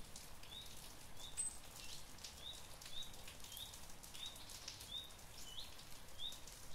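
Faint, soft rain falling, with a bird repeating a short, high chirp over and over, roughly twice a second.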